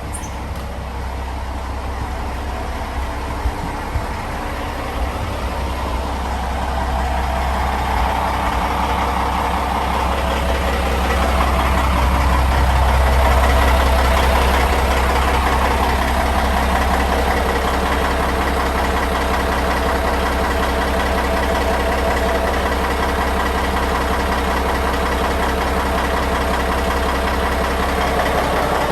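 Caterpillar C18 inline-six diesel engine running steadily, with a deep low hum under a busy mechanical noise, growing louder over the first dozen seconds and then holding steady.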